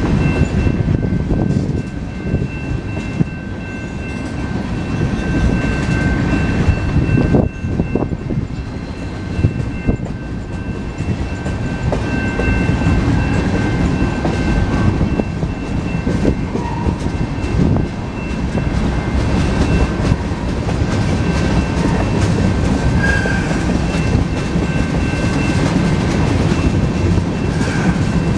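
Freight train of tank cars rolling past: the rumble and clatter of steel wheels on the rails, with a steady high-pitched ringing over it.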